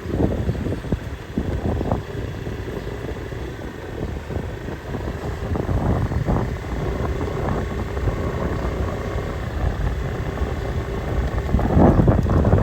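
Low engine rumble from vehicles, mixed with wind buffeting the microphone, getting louder near the end.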